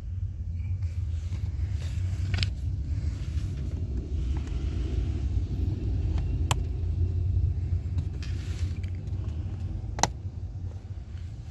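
Plastic interior trim tabs being unclipped: three sharp clicks a few seconds apart over a steady low rumble.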